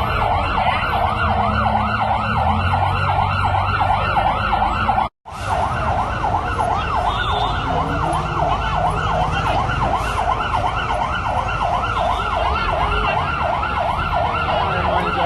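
Emergency vehicle siren yelping, its pitch sweeping rapidly up and down about four times a second over a low engine rumble. The sound cuts out briefly about five seconds in, then resumes.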